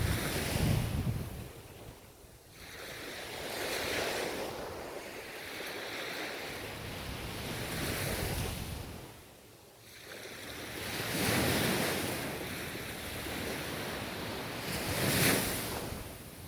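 Ocean surf washing onto the shore, rising and falling in swells every few seconds, with the loudest surge near the end.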